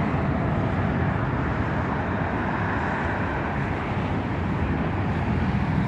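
Steady engine noise, a low rumble with hiss over it, without rise or fall.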